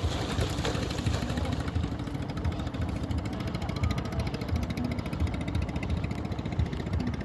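Boat motor running steadily, with wind buffeting the microphone in uneven low rumbles.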